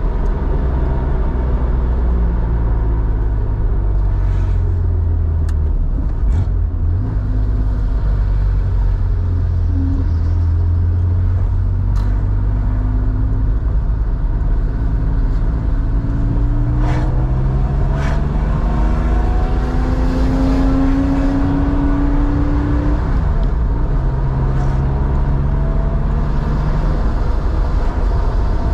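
Air-cooled flat-six of a 1987 Porsche 911, enlarged to 3.4 litres and breathing through a SCART two-in-one-out muffler, running under way, its pitch climbing as it accelerates and dropping as it eases off, several times over. A few short sharp clicks sound through it.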